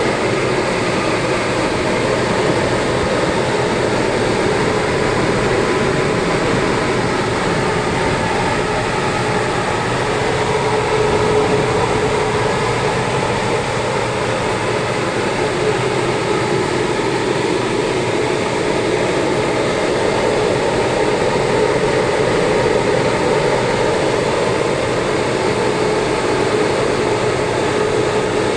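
Loud, steady machine noise with a faint constant hum, unbroken throughout.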